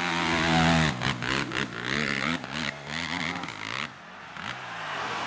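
Dirt bike engine revving hard, then the throttle blipped on and off in quick stabs from about a second in, its pitch rising and falling.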